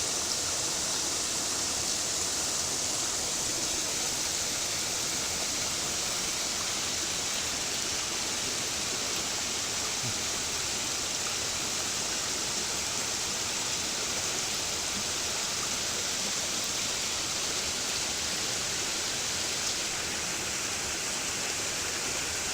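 Mountain stream water rushing steadily over rocks, an even hiss that does not change.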